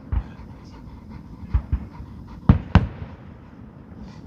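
Aerial fireworks going off in a show: a dull thump just after the start, two softer thumps about a second and a half in, then two loud sharp bangs a quarter second apart, over a low rumble.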